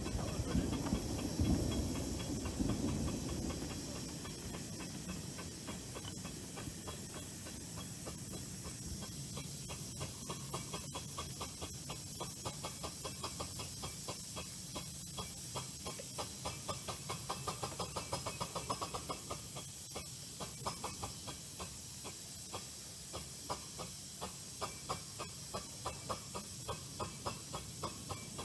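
Small light-railway train running along its track: a steady hiss with a regular clicking, about two clicks a second, that becomes more distinct about ten seconds in. There is a louder low rumble in the first few seconds.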